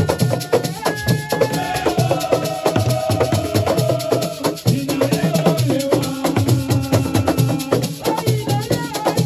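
Assiko music: fast, dense drum and shaker percussion, with long held notes sounding over the rhythm.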